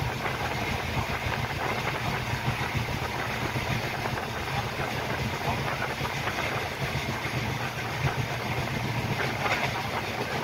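Steady running noise of a moving Saraighat Express passenger train heard from inside the carriage: a constant low rumble of wheels on the track mixed with rushing air.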